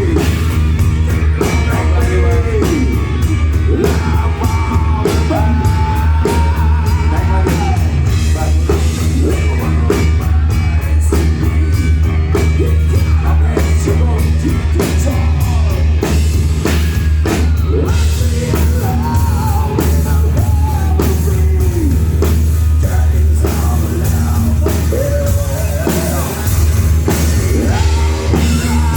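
Rock band playing loudly at a sound check: a sung vocal line over drums, guitar and heavy bass.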